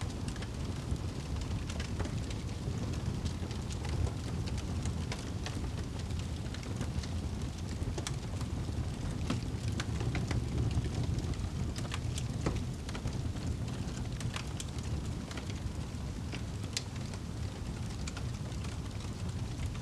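Wood campfire crackling, with irregular sharp pops and snaps scattered throughout over a steady low rumble.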